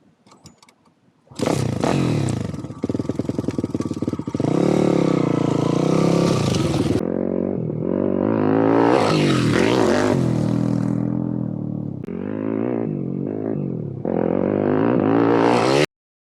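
YCF Bigy 190 pit bike's single-cylinder four-stroke engine revving hard, its pitch climbing and dropping repeatedly as the throttle opens and closes. It cuts in sharply about a second in and cuts off abruptly near the end.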